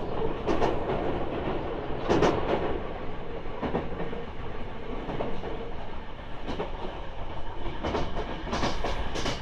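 Hankyu train running, heard from inside the passenger car: a steady rumble with the wheels clacking over rail joints, a sharp clack every second or two.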